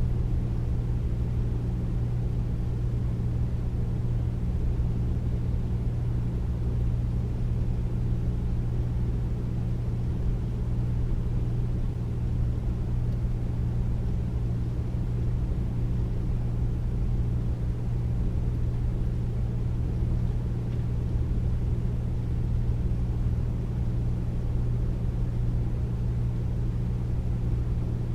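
Air conditioner running steadily: a deep, even hum with a low rushing of air, unchanging throughout.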